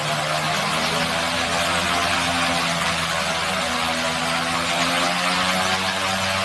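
Air Tractor AT-402T crop duster's turboprop engine and propeller running steadily: an even, loud drone with a few low tones holding their pitch.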